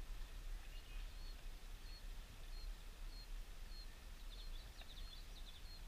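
A small bird chirping outdoors: short high chirps about every half second, with a quick run of notes about four and a half seconds in, over a steady low rumble.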